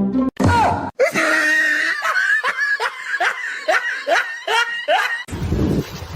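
A person laughing in a quick run of short, falling 'ha' sounds, about two or three a second. About five seconds in it breaks off into a low rumbling noise.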